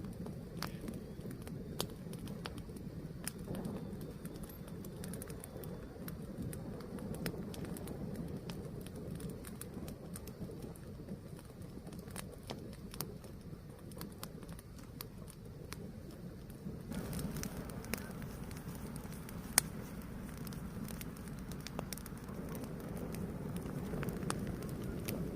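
Fire burning with a steady low rumble and scattered crackles and pops. One louder pop comes a little past the middle.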